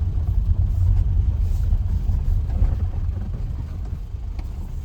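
A steady low rumble, easing a little near the end.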